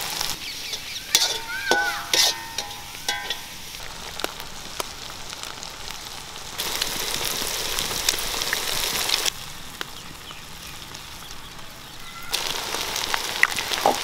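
Onion, tomato and chilli masala sizzling in a hot iron kadai, with sharp knocks and brief ringing from a metal spatula striking the pan in the first few seconds. The sizzling grows louder in two stretches as eggs are cracked into the hot oil.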